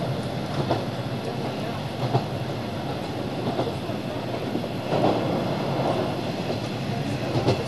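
Running noise heard from inside a moving train: a steady drone with the wheels clicking over rail joints every second or two.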